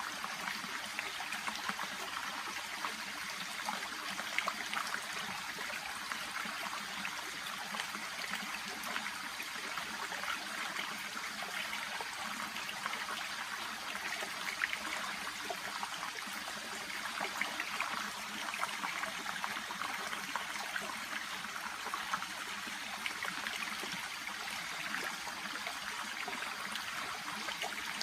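Shallow babbling brook trickling and burbling steadily over stones, with many small splashes and bubbles in the water.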